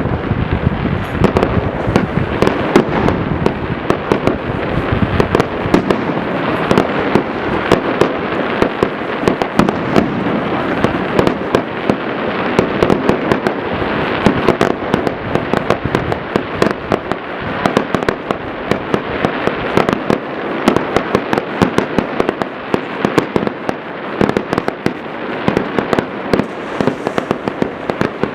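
Many fireworks going off at once: a dense, unbroken crackle of overlapping bangs and pops, several a second.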